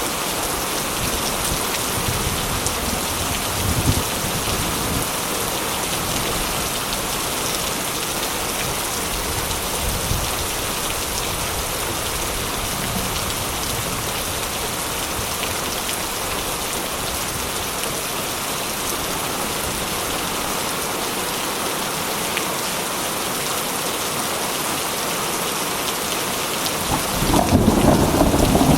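Heavy rain falling steadily with thunder: faint low rumbles a few times, then a louder rolling rumble of thunder near the end.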